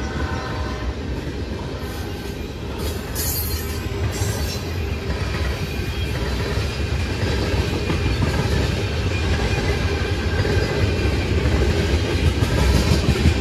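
A train running past on the rails: a steady rumble of wheels on track that grows louder toward the end, with brief high-pitched wheel squeals about three to four seconds in.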